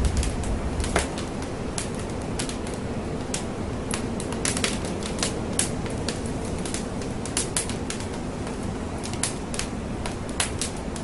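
Wood fire crackling in a fireplace: irregular sharp pops and snaps over a steady hiss. A low rumble fades out about a second in.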